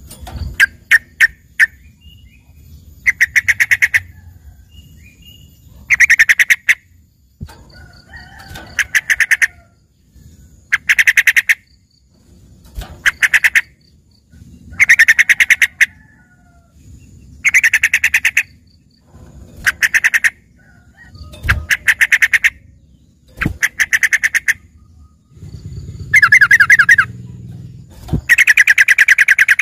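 Yellow-vented bulbul (trucukan) singing a tutored song that mimics a green leafbird: short, rapid, chattering trills repeated about every two seconds, loud and close.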